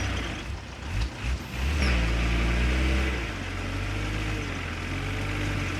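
Heavy diesel engine of earthmoving machinery running. About two seconds in it revs up, climbing in pitch for about a second, then settles to a steady, slightly lower run.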